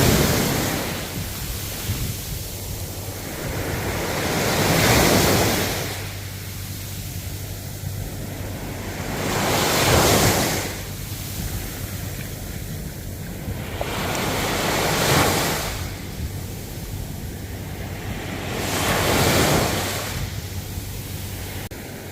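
Ocean waves breaking and washing in, swelling and fading about every five seconds.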